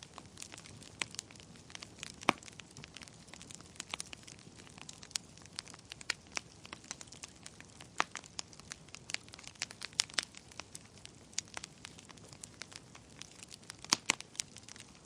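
Wood fire burning in a fireplace: a steady low hiss with irregular crackles and sharp pops, the loudest pops at about two, eight, ten and fourteen seconds in.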